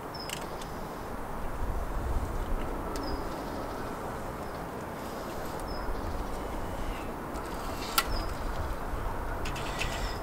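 A bird repeating a short high chirp every second or two, over a low wind rumble on the microphone. Scattered clicks and rustles of the wiring loom being handled, with one sharp click about eight seconds in.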